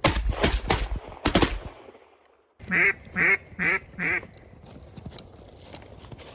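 A quick volley of shotgun blasts from several hunters firing together at incoming ducks. About three seconds in come four quacks in an even series, from a duck or a duck call.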